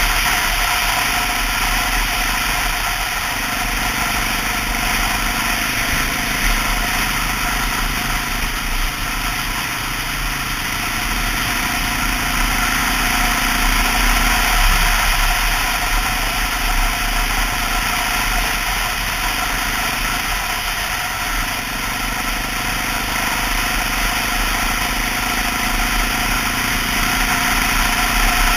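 Honda XR650L's single-cylinder four-stroke engine running as the motorcycle is ridden, over a steady rush of noise. The engine pitch shifts up or down a few times along the way.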